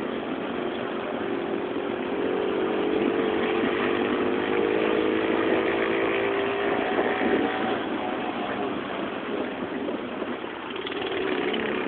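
Small mini bike engine running steadily, its pitch rising a little in the middle, then easing off and dropping lower near the end.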